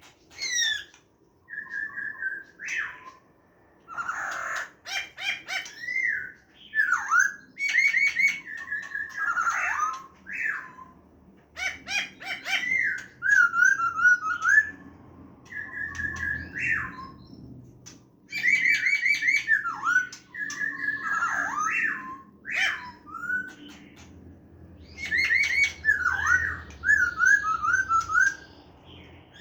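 Black-throated laughingthrush singing its wild-type song. Loud phrases of clear whistled notes slide up and down, mixed with sharp clicking notes, with short pauses between phrases.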